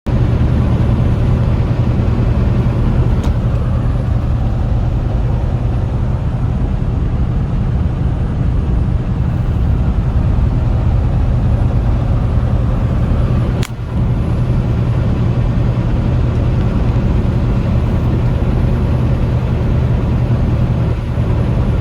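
Semi-truck engine and road noise while driving: a loud, steady low rumble and hum. A single sharp click about two-thirds of the way through.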